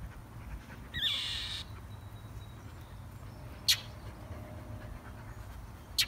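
A nesting bird's harsh scolding call, one rasping call about half a second long about a second in, then a single short sharp chip past the middle, over a low rumble of wind on the microphone. The bird is defending its nest from a dog.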